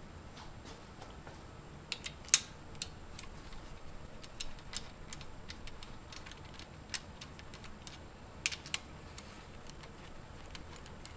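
Scattered light metallic clicks and taps as the main bearing caps and their oiled bolts are handled and started into the engine block. They come at irregular times, the sharpest about two and a half seconds in and a quick pair near the end.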